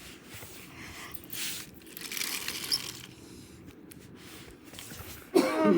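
Light rustling and clicking of toy trains being handled and pushed along, then a short, loud vocal sound from a child near the end.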